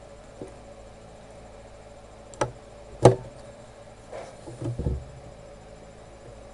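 A few sharp knocks and taps, the loudest about three seconds in, then a short cluster of softer knocks near five seconds, over a faint steady background hum.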